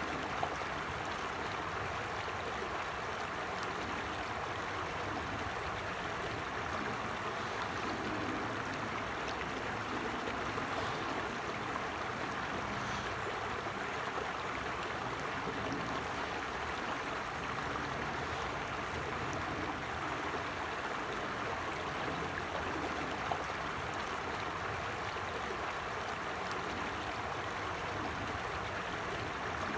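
Creek water running steadily over stones: a continuous, even rush and gurgle with no change in level.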